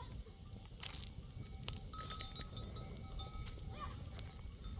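A flock of sheep and goats on the move, small livestock bells tinkling on and off, with a short bleat near the end.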